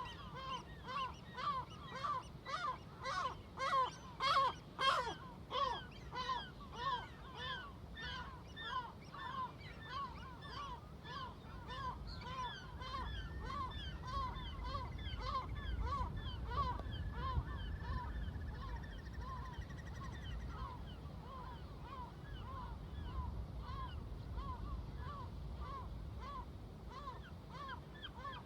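A flock of seagulls calling, short harsh calls following one another about twice a second, loudest a few seconds in. Beneath them a low rumble swells in the middle and eases off again.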